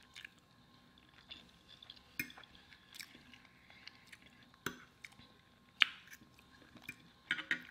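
Close-miked chewing of soft food such as mashed potatoes, with quiet wet mouth sounds and a few sharp clicks from a fork on the plate. The loudest clicks come about halfway through and again a second later, with a small cluster near the end.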